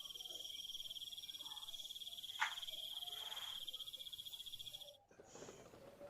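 Night insects trilling in a steady, rapidly pulsing high chirr, which stops abruptly about five seconds in. A single short, sharp call cuts through the trill about two and a half seconds in.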